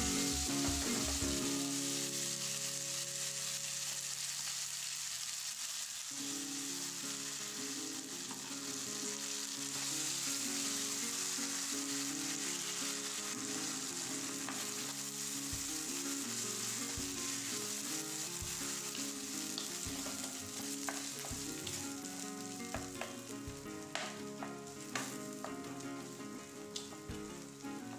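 Masala paste sizzling in hot coconut oil in a wok, with curry leaves and dried chillies, while a wooden spatula stirs and mixes it. A few short knocks of the spatula against the pan come near the end.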